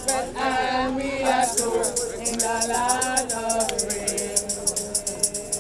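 Group of voices singing a gospel hymn, with hand percussion shaking a steady beat of several strokes a second. A held note runs under the last couple of seconds.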